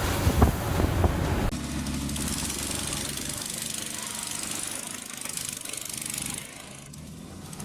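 A loud, rough rumble for about a second and a half, then an abrupt change to an engine running steadily under a hiss, which drops away about a second before the end.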